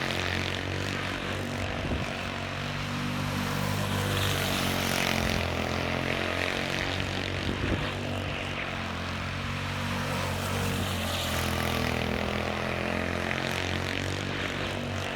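Honda 120 UT3 single-cylinder four-stroke engine of a quarter midget race car running hard on hot laps, a steady buzzing note that dips and rises a little in pitch now and then.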